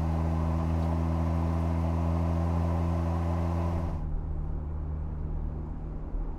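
Jeep Gladiator's 3.6-liter Pentastar V6 running steadily through a Magnaflow Overland Series stainless cat-back exhaust, a deep even exhaust note. About four seconds in, the sound cuts abruptly to a duller, uneven low rumble.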